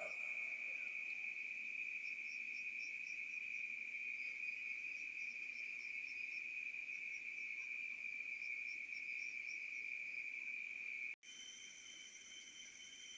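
Crickets chirping in short repeated trains over a steady high-pitched insect drone. About eleven seconds in the sound cuts out abruptly for an instant, and a different steady high whine follows.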